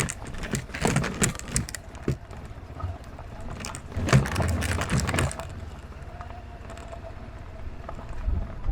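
Honda CB500X parallel-twin engine running under a steady low rumble, with bursts of sharp knocks and rattles in the first two seconds and again around four to five seconds in.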